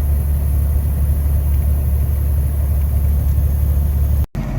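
Steady low drone of a heavy truck's diesel engine and road noise, heard inside the cab while driving. It cuts off abruptly near the end, giving way to a quieter, different background.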